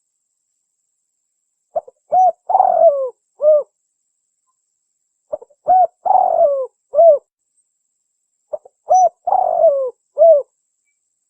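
Spotted dove (tekukur) cooing its song three times, about three and a half seconds apart. Each phrase is a couple of short notes, a long rough falling coo, and a final clear coo, with silence between phrases.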